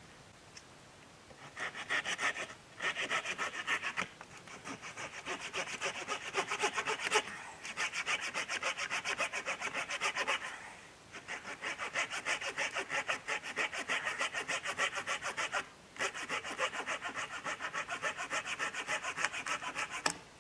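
Hand saw cutting through wood in quick back-and-forth strokes, several a second, in a few runs broken by short pauses.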